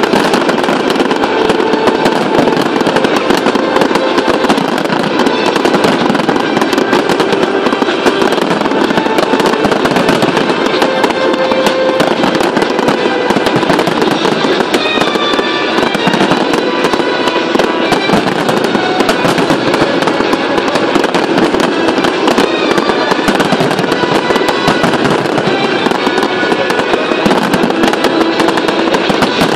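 Dense, continuous crackling and banging of a large fireworks display, with music playing underneath.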